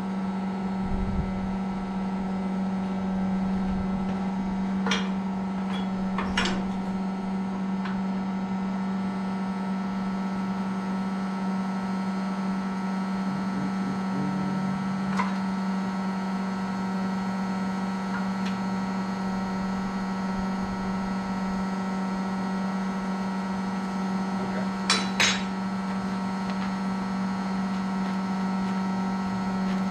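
Steady machine hum holding one low tone, with a few sharp metallic clinks: two about five and six seconds in, one near the middle and a double clink near the end.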